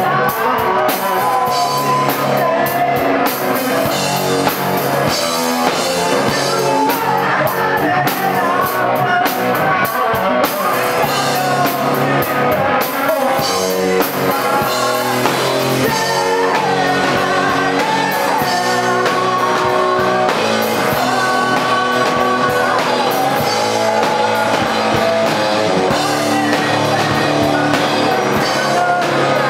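A live rock band playing: electric guitar and drum kit with a wavering lead melody line.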